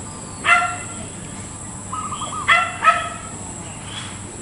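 A dog barking: one short yelp about half a second in and two more close together near the end. Between them comes a quick, rolling, wavering coo from a zebra dove (perkutut).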